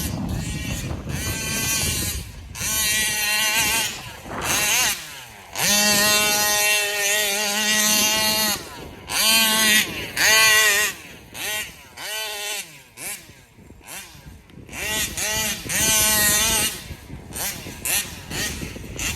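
Small two-stroke RC engine (a Taylor 35 on a stock 1107 carburetor) running hard in repeated bursts. Its pitch climbs and falls as the throttle is opened and let off again, about a dozen times.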